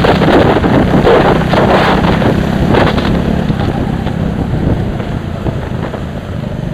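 Heavy wind buffeting on an onboard camera microphone over a vehicle engine running underneath. The buffeting eases after about three seconds.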